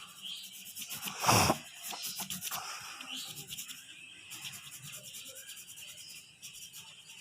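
Pencil shading on paper: quick, repeated scratchy strokes of graphite rubbing across the sheet, with one louder thump about a second in.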